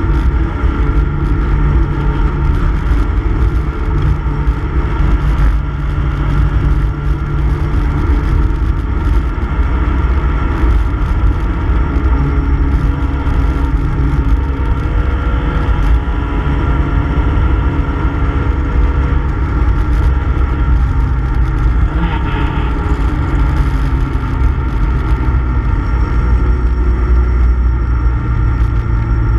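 Classic Mini Cooper S race car's BMC A-series four-cylinder engine running hard under racing load, heard loud from inside the cabin, its note changing several times with gear changes and corners.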